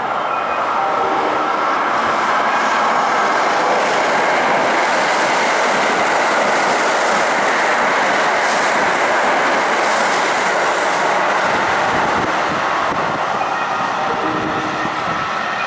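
Kintetsu limited express electric train passing through a station at speed: a loud, steady rush of wheels on rail that begins suddenly and eases after about twelve seconds. Near the end a few steady tones come in.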